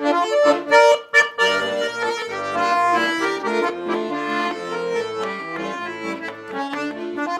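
A Russian garmon (button accordion) plays a melody over chords with no singing, an instrumental break between verses of a song.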